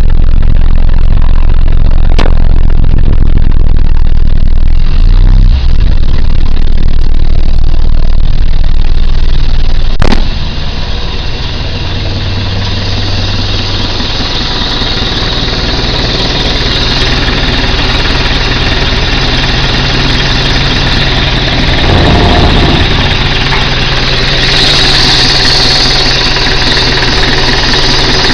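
1998 Nissan Eagle pickup truck's engine running. A heavy low rumble fills the first ten seconds; after a sharp click it settles into a steady idle, with a brief rise in revs a little past two-thirds of the way through.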